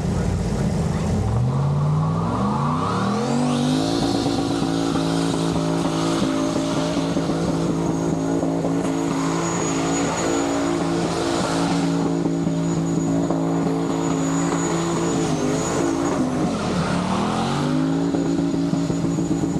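Turbocharged LS V8 in a Ford Pinto wagon doing a burnout. The revs climb about two seconds in and are held high with the tyres squealing, dip briefly near the end, then climb again.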